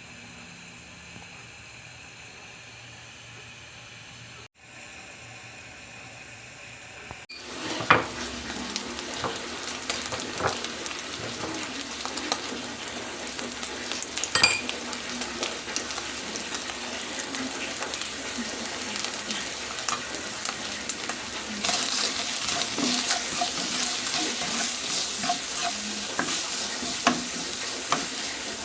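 A quiet steady hiss, then from about seven seconds in food sizzling in a hot pan while it is stirred, with frequent clicks and scrapes of the spatula against the pan. The sizzle gets louder about twenty-one seconds in.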